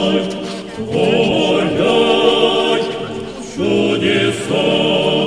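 A group of voices singing an Orthodox church hymn in held phrases, broken by two short pauses.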